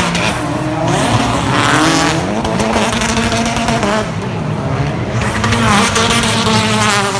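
British Touring Car Championship race cars, with 2.0-litre turbocharged four-cylinder engines, running hard past the track. Several engines sound at once, their pitch rising and falling.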